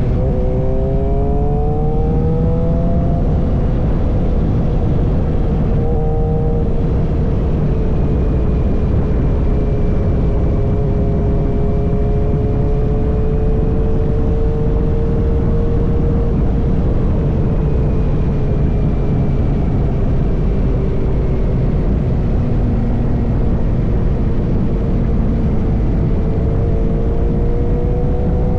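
Suzuki GSX-R motorcycle engine through an M4 full-system exhaust, running under way: its note climbs over the first few seconds, holds fairly steady with slow rises and falls, and climbs again near the end, over a continuous low rumble.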